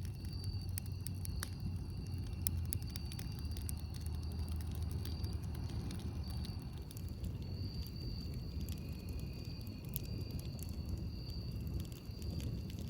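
Campfire burning, with irregular crackles and pops over a steady low rumble.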